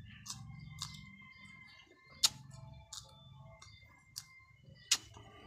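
Close-up mouth sounds of someone eating a fresh red chili pepper: biting and chewing, with several sharp, crisp clicks and smacks, the two loudest a little over two seconds in and near the end.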